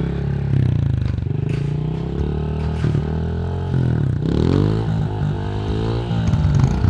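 Small motorcycle engine running, its revs rising and falling about four seconds in.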